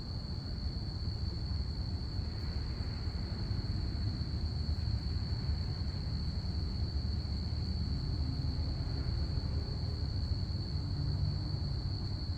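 Crickets chirping in one steady, unbroken high-pitched trill, over a louder low steady rumble.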